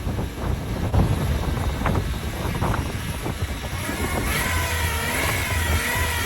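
Daihatsu Hijet Truck running with a low engine hum and a few knocks. From about four seconds in, a wavering whine rises and falls: the 'unyo unyo' noise from its faulty automatic transmission.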